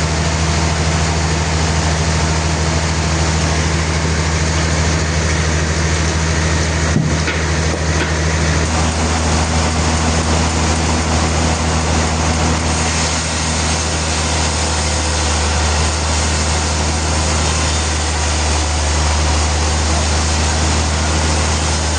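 Sawmill machinery running steadily with a deep, even drone, and a single short knock about seven seconds in.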